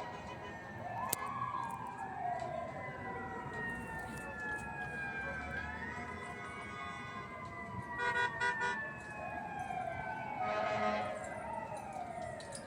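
Sirens of responding FDNY fire apparatus wailing, several slow rising and falling glides overlapping one another, with a quick series of horn blasts about eight seconds in.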